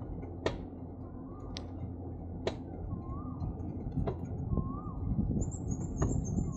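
A bird repeating a short whistled note that rises then falls, about every one and a half seconds, over a steady low rumble from riding a bicycle. A few sharp clicks come through.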